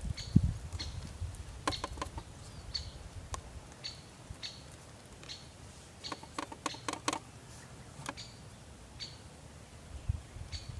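A small bird giving short, high chirps over and over, about once or twice a second, with a quick run of calls near the middle.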